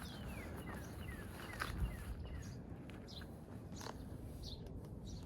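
Birds calling: a run of short falling whistles, then scattered high chirps, over a low rumble with one brief knock about two seconds in.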